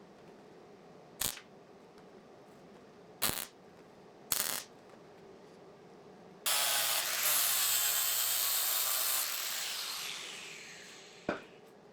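Three sharp metal knocks, then an angle grinder run for about three seconds on steel. It winds down over a couple of seconds, with a falling whine as the disc spins down, and one more knock near the end.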